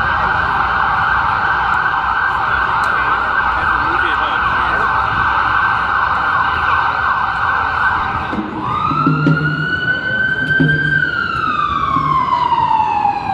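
Emergency vehicle siren sounding a fast yelp. About eight seconds in it switches to a slow wail that rises, holds, falls steadily and starts rising again near the end.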